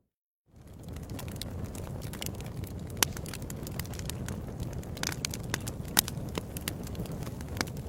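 Wood fire in a fireplace crackling: a steady low rumble of burning with frequent sharp pops and snaps, the loudest about three and six seconds in. It opens with half a second of silence, then fades in.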